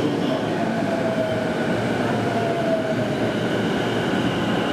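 Keihin-Tohoku Line E233-series electric train pulling in at the platform: a steady rumble with a faint motor whine falling slowly in pitch as it brakes, then a thin high tone near the end.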